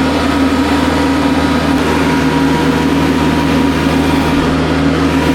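Kubota tractor's diesel engine running steadily while the tractor picks up washed-out driveway gravel.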